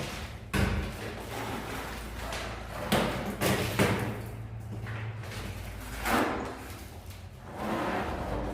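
Plastering tools knocking and scraping while gypsum plaster is worked onto a ceiling: a series of irregular thumps and scrapes.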